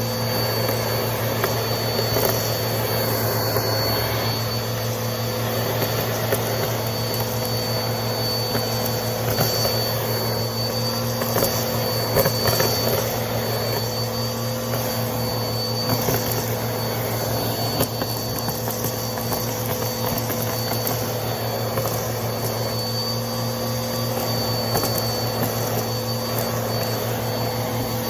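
Vacuum cleaner running steadily with a thin high whine, sucking up crunchy debris with scattered clicks and crackles.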